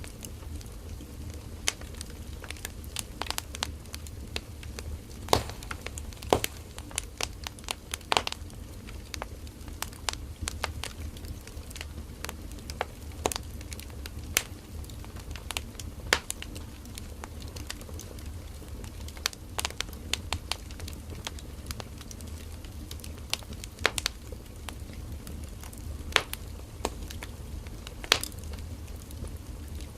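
Burning firewood crackling and popping at irregular intervals, sharp snaps scattered over a soft, steady low rumble of the flames.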